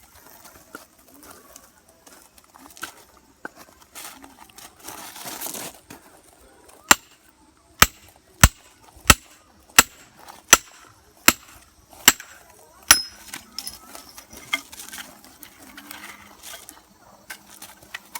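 Axe striking oak firewood: a run of about nine sharp knocks a little over one a second, some leaving a brief metallic ring.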